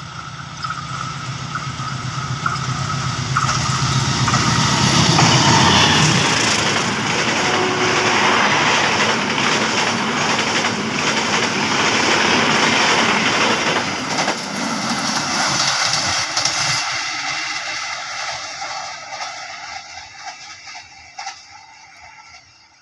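Diesel locomotive-hauled passenger train passing close by. The locomotive's engine hum builds to its loudest about five seconds in, then a steady rush of wheels on rails follows as the coaches go by, fading away over the last several seconds.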